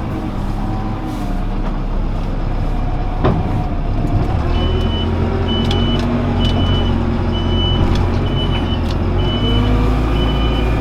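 Diesel engine of a farm loader vehicle running steadily. From about halfway in, a reversing alarm beeps about once a second as it backs up.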